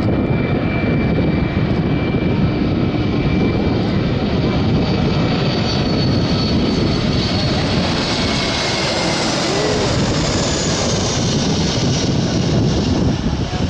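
Airbus A320 jet airliner passing overhead, its twin turbofan engines giving a loud, steady rush with thin high whining tones that slowly fall in pitch.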